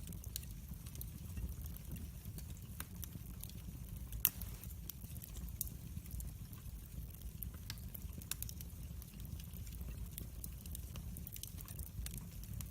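Wood fire in a fireplace crackling, with a steady low rumble of the flames under scattered pops and one sharper crack about four seconds in.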